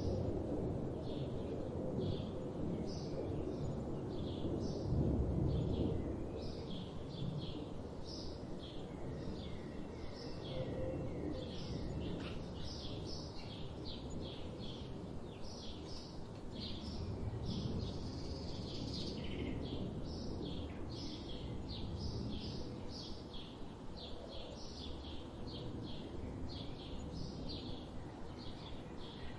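Songbirds chirping and singing, a steady stream of short high notes, over a constant low outdoor rumble that is louder for the first few seconds.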